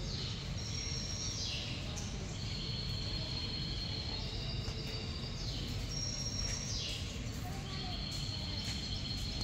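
Birds calling: high, held chirps and trills with quick falling sweeps, repeating every few seconds over a steady low rumble of background noise.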